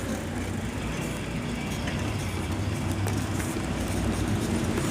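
Steady wind and road noise from riding a bicycle along a road, with a low rumble and hum of passing motor traffic.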